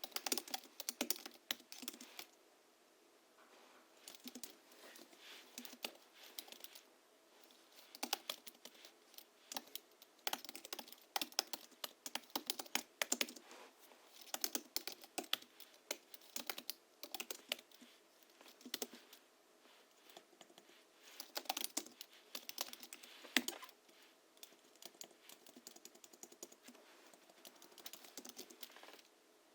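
Typing on a Hansung GHL-5X keyboard whose springs are lubricated with Krytox 103 and 107 and fitted with 50 g rubber domes, giving a muffled, clacky keystroke sound. Bursts of rapid keystrokes come with short pauses between them.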